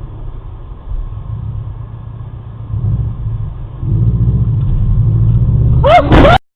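Steady low rumble of a vehicle driving, picked up by a dashcam, growing louder about four seconds in. About six seconds in comes a sharp knock with a brief wavering screech, then the sound cuts off abruptly.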